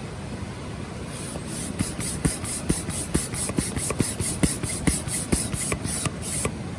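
Rhythmic scraping or rasping strokes, about four a second, over a steady hiss; they start about a second in and stop suddenly near the end.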